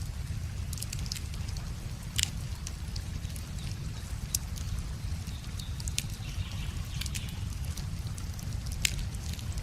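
Wood fire crackling, with irregular sharp pops and snaps, the loudest a couple of seconds in, about six seconds in and near the end, over a steady low rush of river water.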